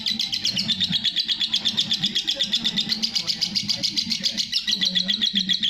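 Lovebird chattering in a long, unbroken 'ngekek' trill: rapid, evenly repeated high notes, many per second.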